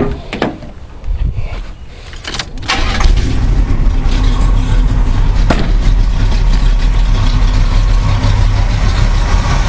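Oldsmobile 350 V8 in a 1986 Oldsmobile 442 starting up through a new Pypes exhaust with an X-pipe: it fires about three seconds in and then runs at a loud, steady idle.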